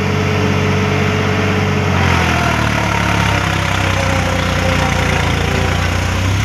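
Swaraj tractor's diesel engine running steadily; about two seconds in, its sound turns louder and rougher.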